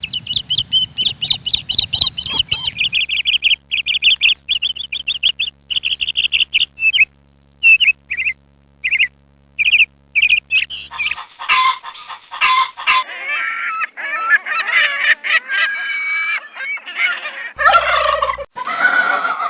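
Birds calling in a run of short clips: first fast, repeated high-pitched chirps and trills, then from about eleven seconds in a busy chatter of many birds calling over one another.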